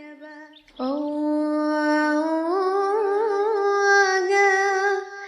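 A woman singing a Yemeni malala folk song, unaccompanied. After a short breath she holds one long drawn-out note, which steps up in pitch partway through and wavers in small ornaments.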